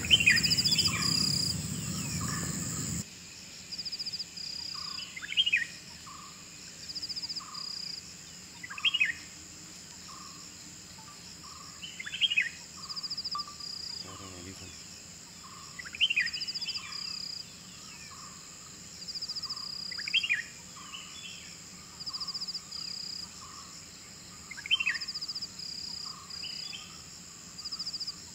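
Forest dawn chorus: one bird repeats a short call that sweeps downward, about every three to four seconds, and it is the loudest sound. Under it run other small birds' chirps and a steady high insect drone with pulsing trills. A low rumble fills the first three seconds.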